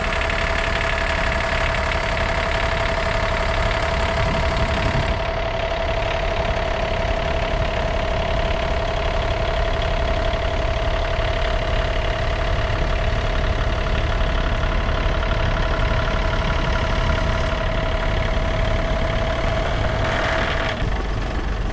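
Tractor engine idling steadily while it warms up, with a constant whine over the low running sound.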